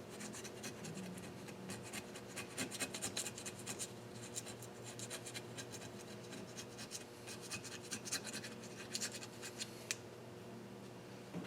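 Blade scraping deposits off an engine cylinder head, in quick irregular strokes that come thickest in the first few seconds and again near the end, with one sharp click about ten seconds in.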